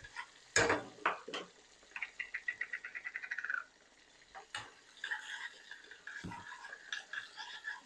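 Kitchen handling sounds: a few sharp knocks of utensils or containers, and a rapid run of clicks lasting about a second and a half near the middle.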